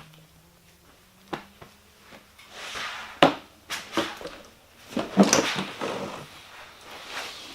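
Irregular knocks and rustling, handling or scuffling noises, with the sharpest, loudest knock about three seconds in and a denser cluster of knocks and rustling a couple of seconds later.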